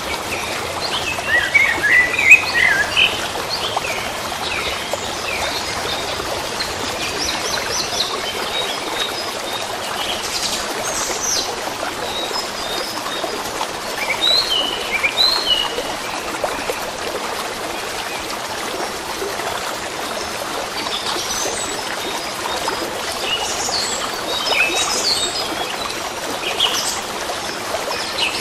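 Flowing stream water running steadily, with small birds chirping over it in scattered bursts, busiest near the start, in the middle and towards the end.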